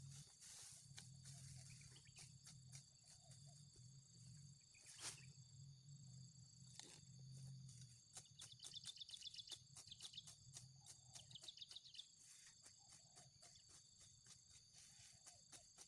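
Faint insect chorus: steady high buzzing with crickets trilling in two short bursts about halfway through, and many scattered faint clicks.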